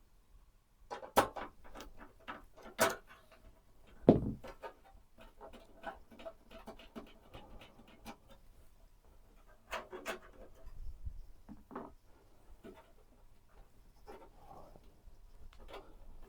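A series of sharp clicks and knocks, with one heavy thud about four seconds in and another cluster of clicks near ten seconds.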